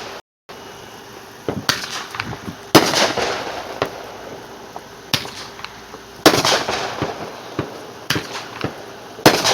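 Backyard fireworks going off: about six sharp bangs, one every one to two seconds, each followed by crackling. The sound cuts out for a moment just after the start.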